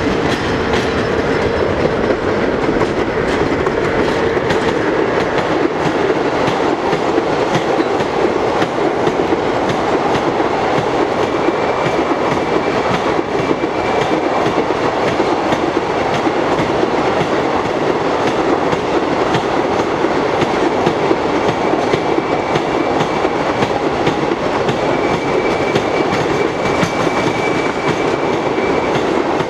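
Intermodal freight train of container and swap-body wagons rolling steadily past, its wheels clattering over the rail joints. A faint high squeal comes and goes from about a third of the way in.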